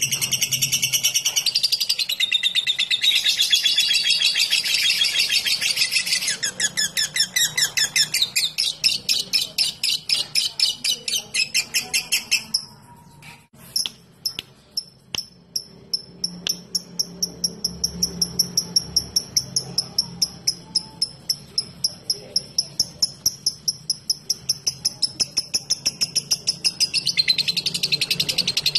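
Lovebird chattering in long shrill trills, breaking into a rapid, even ticking series (the 'ngetik' call), pausing briefly about halfway, then ticking on before the full chatter returns near the end.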